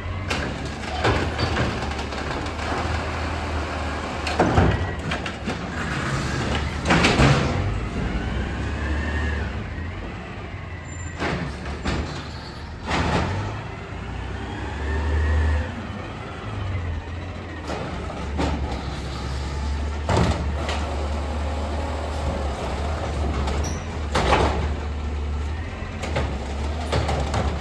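Amrep automated side-loader garbage truck's diesel engine running steadily, with a rising and falling hydraulic whine in the middle and about six sharp bangs as carts are dumped and set back down.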